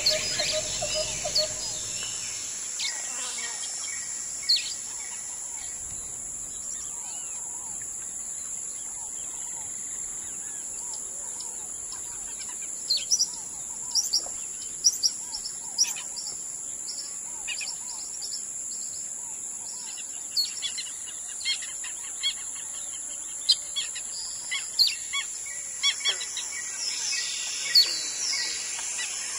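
Wild birds calling: many short, sharp chirps, coming thick and fast from about halfway in, over a steady high-pitched drone.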